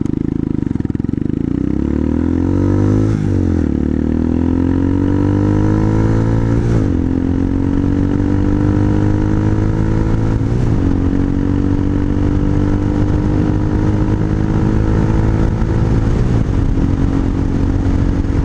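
RPS Hawk 250's single-cylinder four-stroke engine, breathing through an aftermarket exhaust, pulling hard as the motorcycle accelerates up through the gears. The revs rise, then drop at each of four upshifts, and each gear pulls more slowly than the last.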